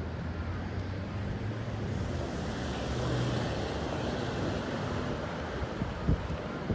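Road traffic noise: a steady low rumble, with a vehicle's hiss swelling and fading in the middle, and a couple of short knocks near the end.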